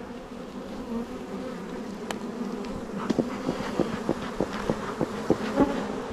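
Honeybees buzzing around an open hive: a steady, dense hum. From about halfway a quick series of sharp clicks or taps sounds over it, about three a second.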